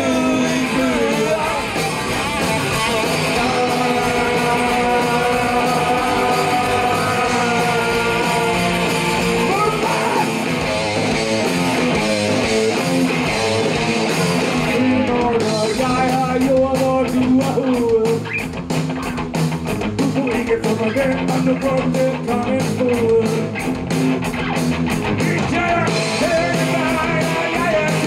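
Rock band playing a song, with a lead vocal singing over electric guitar and drums. About fifteen seconds in, the high cymbal wash drops away and the band settles into a tighter, choppy rhythm under the voice.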